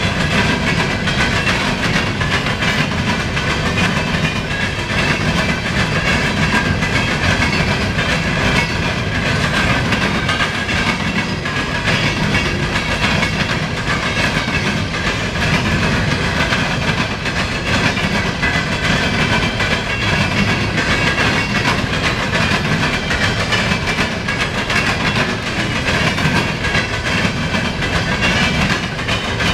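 Norfolk Southern coal train's hopper cars rolling past, a steady unbroken clatter of steel wheels on the rails.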